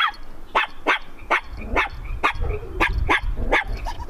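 A dog barking repeatedly: about ten short, sharp barks in quick succession, roughly two a second, over a low background rumble.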